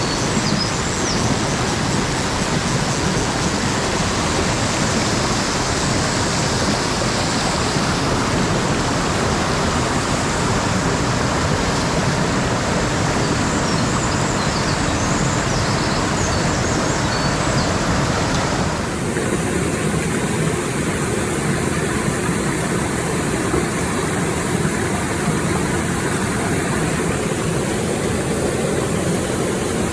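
Mountain stream water rushing steadily over rocks, with a few faint bird chirps in the first part. The sound of the water changes abruptly about two-thirds of the way in.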